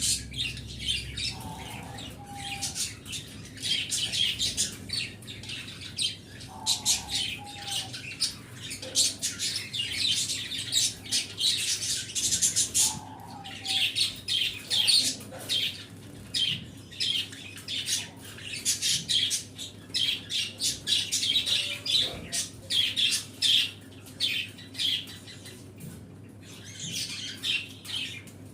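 A flock of pet birds chirping and chattering, with many rapid, overlapping high calls and now and then a short lower call.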